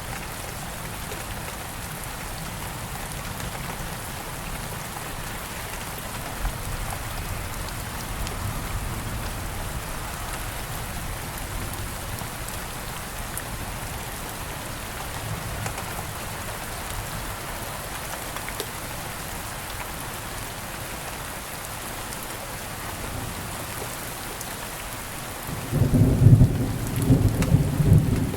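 Steady rain falling, with a loud, low rumble of thunder near the end.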